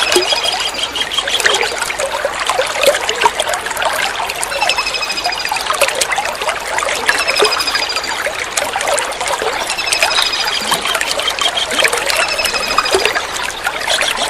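Kingfisher calling over trickling running water: every two and a half to three seconds a short, rapid run of high, clipped notes, about five times, above a steady trickle.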